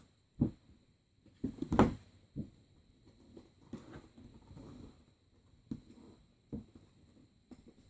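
Hands handling toy packaging: irregular knocks, clicks and rustling of cardboard and plastic, with a louder cluster of knocks about two seconds in.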